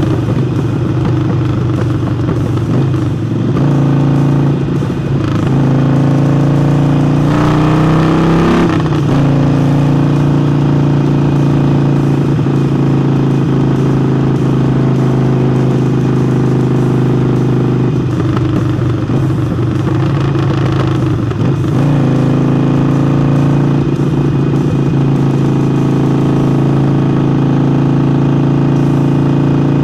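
Harley-Davidson Forty-Eight's air-cooled V-twin engine running steadily under way, breathing through a newly fitted aftermarket air intake. The engine note rises and falls briefly about eight seconds in.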